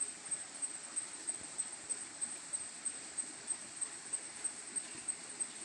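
Forest insect chirping in a steady rhythm, about three high-pitched pulses a second, over a constant hiss.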